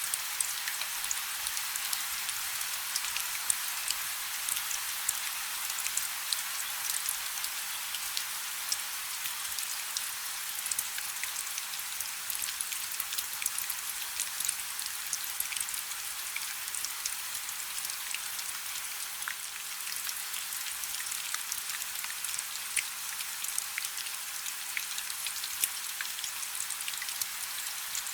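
Steady rain falling on a river: an even hiss made up of many fine drop ticks, with no low rumble.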